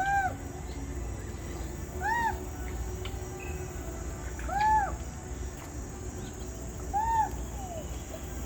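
African grey parrot whistling: four short whistles, each rising and then falling in pitch, spaced about two and a half seconds apart.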